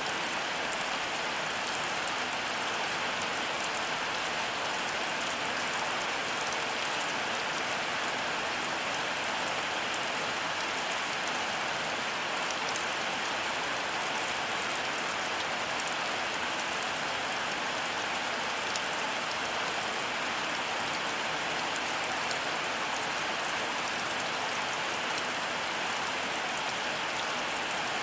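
Heavy rain falling steadily, a dense even hiss of drops with fine scattered patter.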